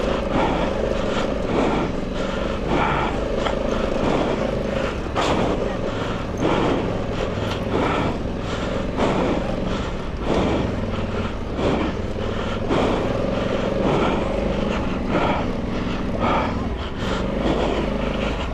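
Honda Africa Twin Adventure Sports DCT's parallel-twin engine running steadily under load as the motorcycle climbs a rough dirt track, with irregular knocks from the bike jolting over ruts.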